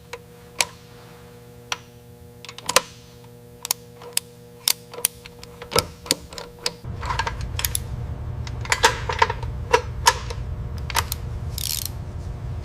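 Irregular sharp clicks and clanks of tools and parts being handled in assembly work, over a steady hum. About seven seconds in, a low rumble joins, and a short hiss sounds near the end.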